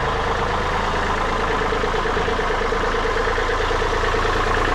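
Tractor engine running at a steady, even speed, with a fast regular firing beat.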